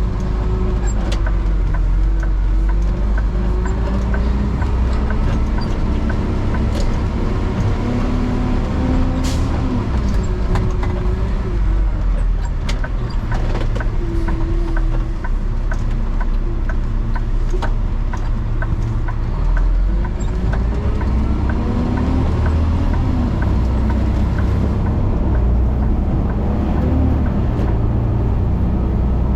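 Garbage truck driving, heard from inside the cab: a steady low rumble with the drivetrain pitch slowly rising and falling as it speeds up and slows down. A run of light, regular ticks comes partway through.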